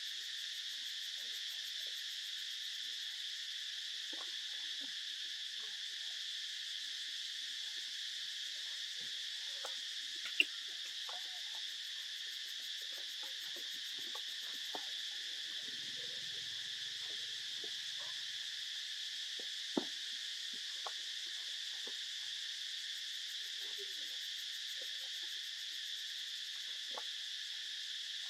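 Steady, unbroken high-pitched chorus of insects, crickets or cicadas, with faint scattered ticks and two sharp clicks, one about ten seconds in and one about twenty seconds in.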